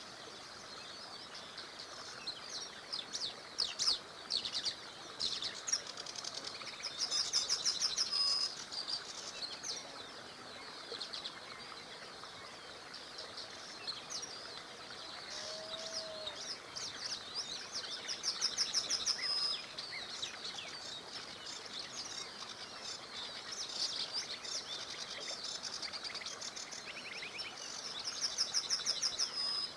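Several songbirds singing and chirping, one of them repeating a fast series of rapid notes that ends in a held note, about every ten seconds. Beneath the birds runs a steady hiss of a small river.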